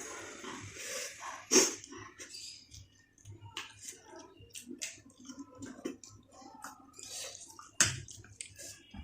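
Close-miked eating sounds: chewing and lip smacking with wet mouth clicks, and two sharp louder clicks, one near the start and one near the end.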